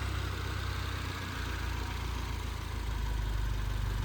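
2022 Subaru WRX's turbocharged flat-four boxer engine idling steadily.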